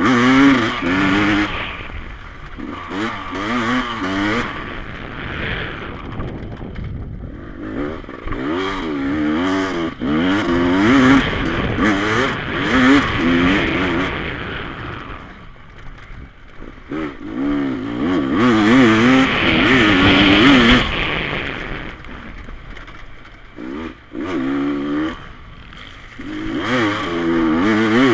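Dirt bike engines revving on a motocross track, the pitch rising and falling with throttle and gear changes. The sound swells loud as bikes come close, near the start, about a third of the way in, around two-thirds in and again near the end.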